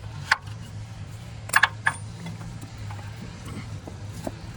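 A few sharp metallic clinks of bolts and hand tools as the mounting bolts are started into a new A/C compressor, the loudest cluster about a second and a half in, over a steady low hum.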